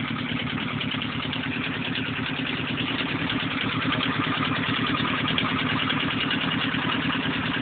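Renault 4CV's small rear-mounted four-cylinder engine running steadily with an even, rapid beat, a little louder from about four seconds in.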